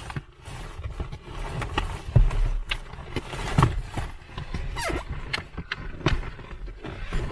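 Irregular knocks, thumps and scraping of a large plastic storage box being lifted and shifted into place in a car's cargo area.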